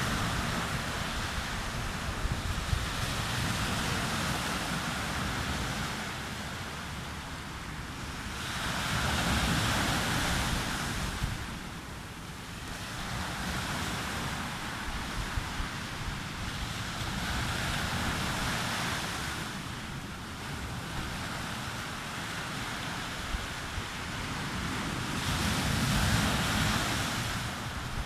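Sea waves breaking and washing onto a beach, the surf swelling and fading in slow surges every eight or nine seconds, with wind rumbling on the microphone.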